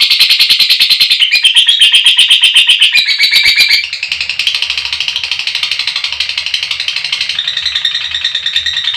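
Lovebird giving its long, shrill 'ngekek' chatter: a fast, unbroken run of sharp high chirps, many to the second. About four seconds in it turns quieter and changes pattern, with a faint low rumble beneath.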